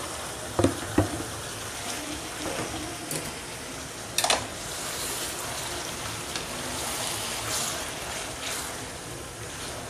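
Marinated chicken sizzling in hot oil with fried onions in an aluminium pot, being stirred with a slotted wooden spatula. There are a few sharp knocks of the spatula against the pot, the loudest about four seconds in.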